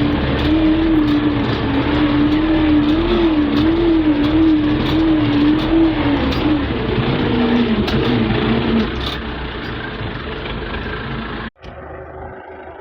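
Belarus MTZ tractor's diesel engine running steadily under load, its pitch wavering slightly. About seven seconds in the engine note drops lower and fades, and the sound cuts off abruptly near the end.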